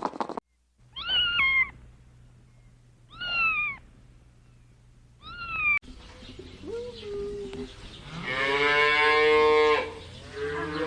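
Domestic cat meowing: three short meows about two seconds apart, then a fainter call and one long drawn-out meow, the loudest, lasting about two seconds.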